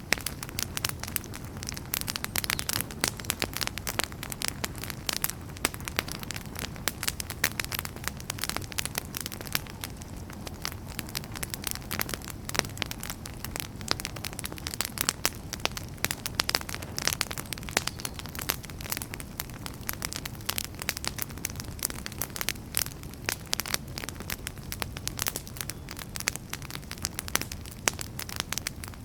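Wood fire burning in a fireplace: logs crackling with dense, irregular sharp pops over a steady low rumble of the flames.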